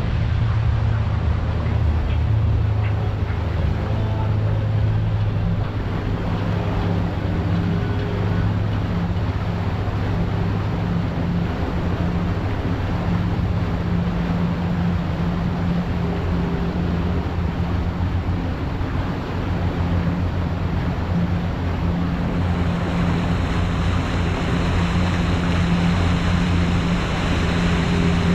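A boat's motor running steadily underway, with a constant low hum and the rush of wind and water.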